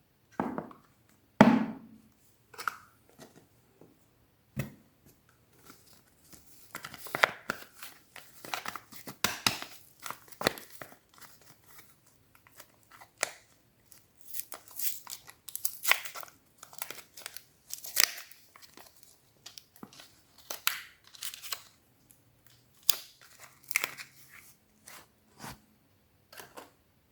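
Soap bars being unwrapped by hand: their wrappers tearing and crinkling in short, irregular spells of crackles and taps, a few sharp ones loudest near the start.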